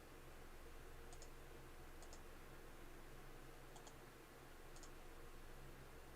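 Faint computer mouse clicks: five quick double clicks, roughly a second apart, over a low steady hum.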